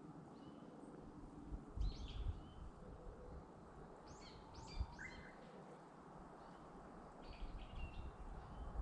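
Small birds chirping in short calls, three bursts of calls over a faint steady outdoor hiss, with a few low thumps near the first two bursts.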